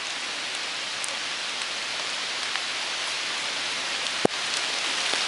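Steady hiss of falling water, with one sharp click about four seconds in.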